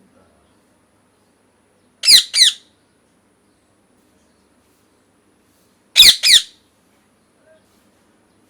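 A bird squawking: two pairs of short, harsh calls falling in pitch, the first pair about two seconds in and the second about six seconds in.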